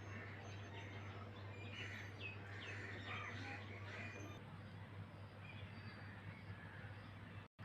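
Several birds chirping and calling in quick, short notes, some sliding up or down in pitch, over a steady low hum. The sound drops out for a split second near the end.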